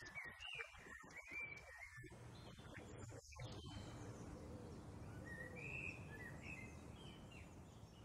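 Faint woodland birdsong: a few short chirps and whistles in the first two seconds and again past the middle, over a low steady rumble.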